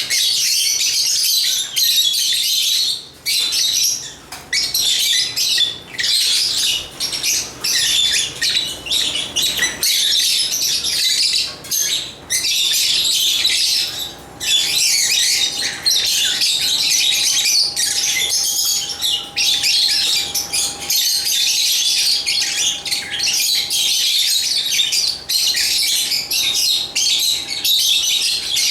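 African lovebirds chattering and chirping almost without a break: a dense run of high, squawky chirps with only brief pauses.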